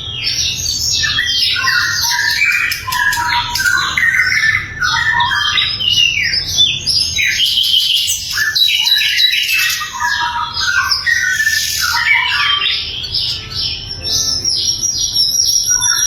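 Sikatan londo flycatcher singing a fast, continuous song of many short chirping and trilling notes, with barely a break.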